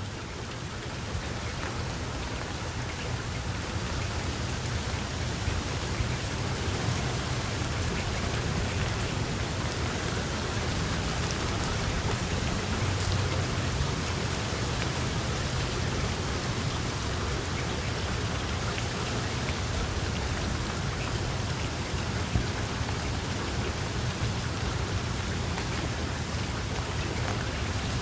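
Steady rain: a continuous hiss of rainfall with scattered drops ticking on a surface and a low rumble underneath, building slightly over the first few seconds and then holding even.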